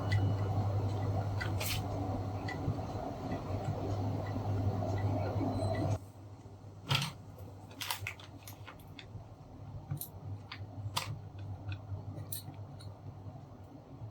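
A steady hum with a fan-like rush that cuts off suddenly about six seconds in, followed by scattered small clicks and taps of tools and parts being handled on a workbench.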